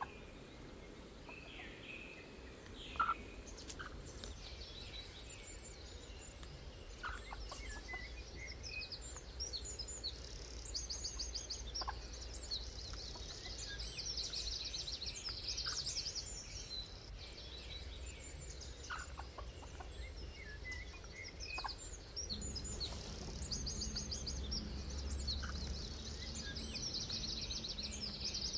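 Small songbirds chirping and trilling, many short high calls and rapid trills overlapping, over a low steady rumble. A single sharp knock about three seconds in.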